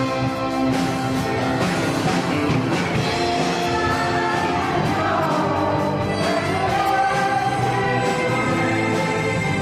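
Live band playing rock music with a singer holding notes, the voice sliding down and back up in pitch about halfway through.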